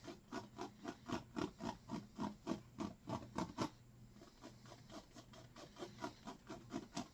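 Short bristle-brush strokes dragged down over wet oil paint on canvas, about three a second, softer after about four seconds.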